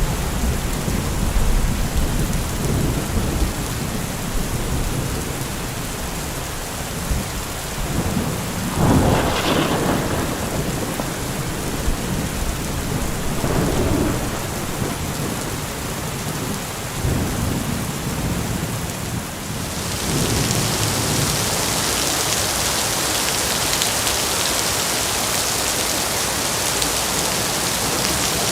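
Heavy rain falling steadily, with a low rumble under it and a few swells for the first two-thirds. About twenty seconds in, the sound abruptly turns brighter and hissier, with much less low end.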